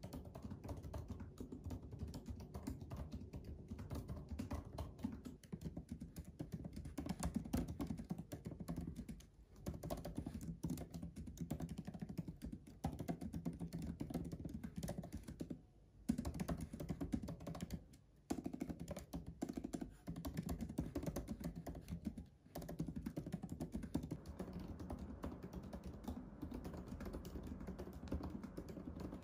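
Fast, continuous typing on a MacBook Pro laptop keyboard: a dense run of soft key taps, broken by short pauses four times.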